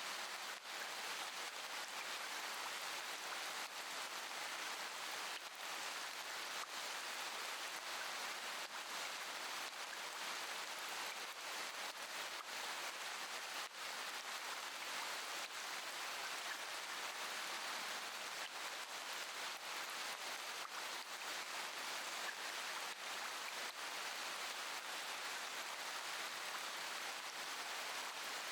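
Steady rain falling, an even hiss with faint scattered ticks of drops through it.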